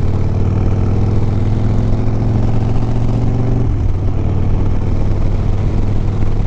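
Harley-Davidson Sport Glide's Milwaukee-Eight V-twin engine running steadily at low revs, its tone changing slightly a little over halfway through.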